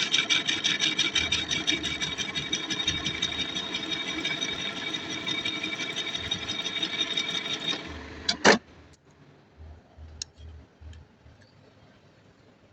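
A machine running loudly with a fast, even pulse and a steady high tone, which stops about 8 seconds in. A single loud clank follows half a second later, then a few faint clicks.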